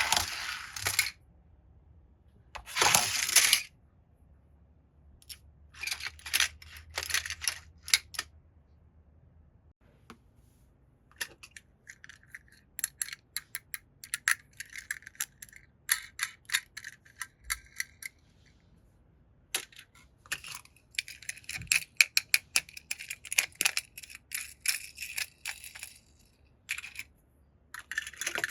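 Toy cars and their plastic packaging being handled: a few short bursts of rustling, then a long run of quick, light clicks and clatters of small hard objects knocking together.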